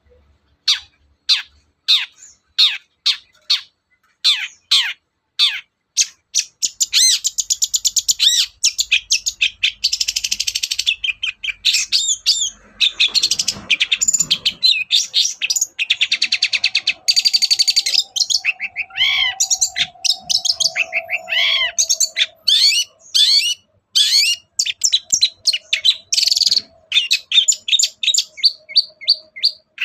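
Long-tailed shrike (cendet) singing. It starts with a run of sharp downward-sweeping notes, about two a second, then breaks into fast, dense chattering and varied mixed notes, with a steady lower tone underneath in the second half.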